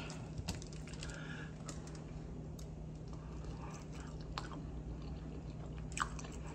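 A person chewing soft, saucy food, with wet mouth smacks and scattered small clicks. A steady low hum runs underneath.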